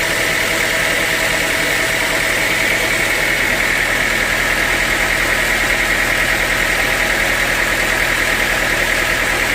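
Sawmill machinery running steadily, a constant mechanical drone with a bright high whine and a fine, even pulsing.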